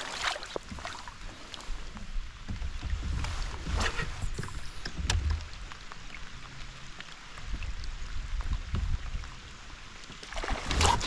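Kayak on the water: a low rumble with a few irregular splashes and knocks, muffled by water in the microphone opening.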